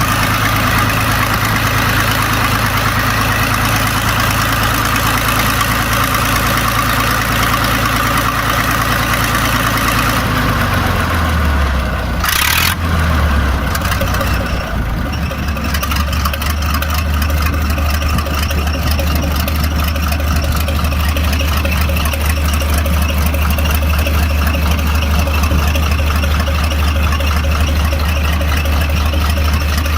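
Diesel engine of a Preet 987 combine harvester running steadily. About a third of the way in, its speed drops with a short burst of hiss, and it settles into a steady, lower-speed run.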